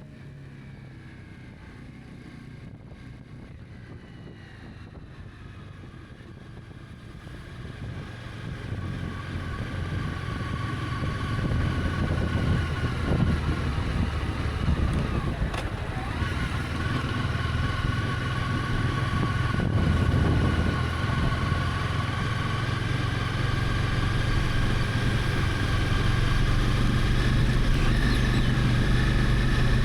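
Honda CB300F's single-cylinder engine running on the move, with wind and road noise. The sound is faint for the first several seconds, then grows louder and holds steady.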